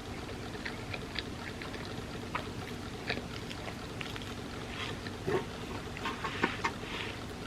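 Close-miked chewing of soft, creamy crepe cake: scattered wet mouth clicks and smacks, thickening into a cluster near the end, over a steady low hum.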